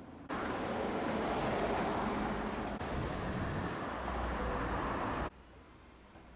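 A loud rushing hiss aboard a streetcar. It cuts in abruptly and stops just as abruptly about five seconds later.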